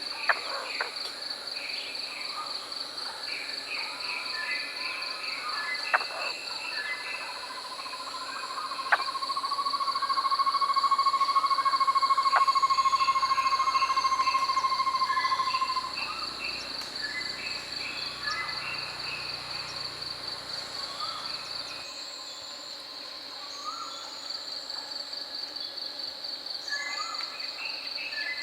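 Forest birds calling over a steady, fast-pulsing insect trill. A long whistled bird note swells and fades from about a third to just past halfway through. A few sharp clicks come in the first ten seconds.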